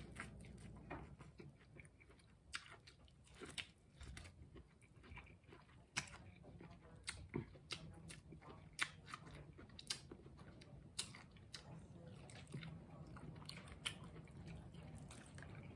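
Close-up eating of corn on the cob in a butter sauce: biting and chewing, with a scattered run of sharp, wet mouth clicks and smacks.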